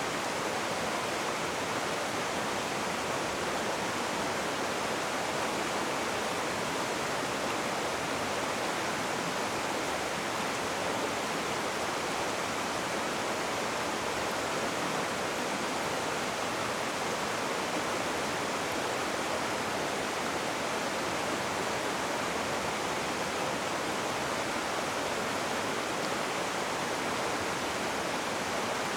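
Rushing river water: a steady, even rush of flowing water with no changes.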